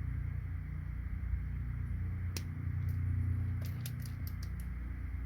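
Sharp clicks of cutters snipping through fully gold-plated plastic computer connectors to cut them in half, once and then about six quick snips in a row, over a steady low hum.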